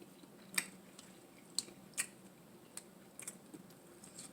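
Close-miked chewing of food: about five sharp, wet mouth clicks and smacks at irregular intervals.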